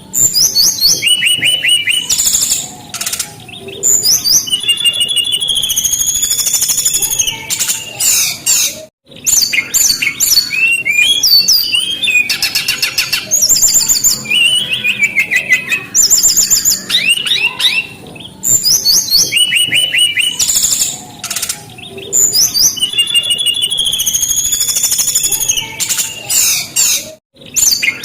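Brown-chested jungle flycatcher (sikatan rimba dada coklat) singing a fast, varied, high-pitched song of whistles, trills and rapid chattering notes, with a brief pause twice.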